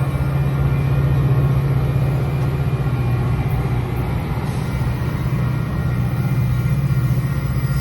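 Diesel locomotive engine running with a steady, pulsing low drone.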